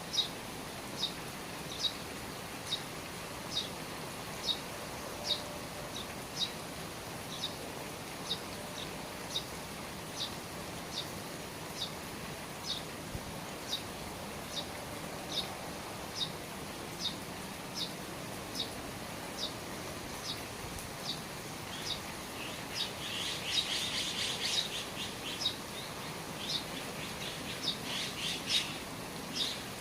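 A bird repeating one short, high chirp about once a second over steady rain dripping from the eaves. About two-thirds of the way through, busier twittering joins in for several seconds.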